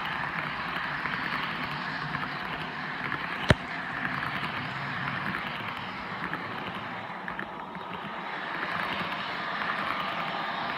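Sound system of a Broadway Limited Paragon 3 HO-scale AC6000 model locomotive playing a steady diesel engine sound through its small speaker as the model runs. A single sharp click comes about three and a half seconds in.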